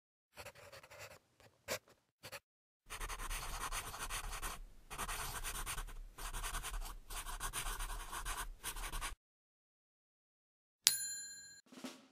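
A pen scratching on paper in drawing strokes, first a few short strokes and then about six seconds of steady scribbling with brief pauses. Near the end a single bright chime rings out and fades.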